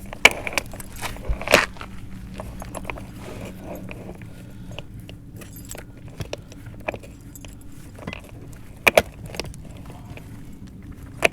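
Metal clinking and rattling of a ratchet snap cutter's chain being wrapped around a clay sewer pipe and fastened, with a few sharper knocks, the loudest about a second and a half in and near nine seconds.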